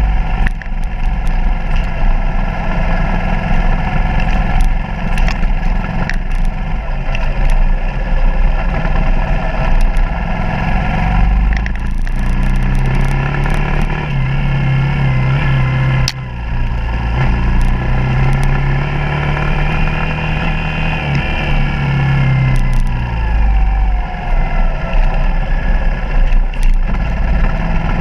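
Suzuki DR200's single-cylinder four-stroke engine running under way, its pitch rising and falling with the throttle, over a steady wind rumble on the microphone. Scattered short knocks from the bike bouncing over the rough dirt road.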